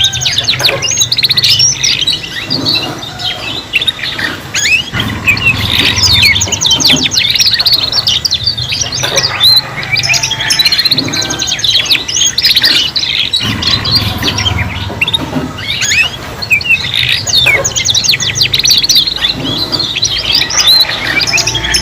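Domestic canaries singing together, overlapping rapid trills and rolls with chirps and short whistled glides, over a steady low hum.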